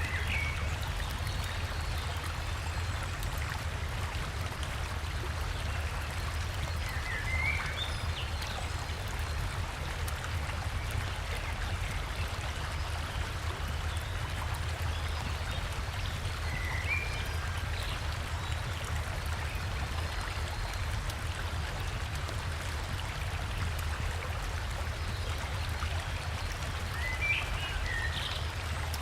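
River water rushing steadily, with a low rumble underneath. A forest bird gives short chirps every ten seconds or so, four times in all.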